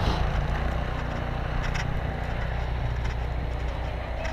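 Steady low drone of a running engine, with a few faint short knocks.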